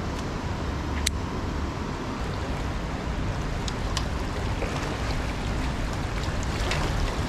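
Steady outdoor riverside noise: wind rumbling on the microphone over flowing river water, with a sharp click about a second in and a fainter one about four seconds in.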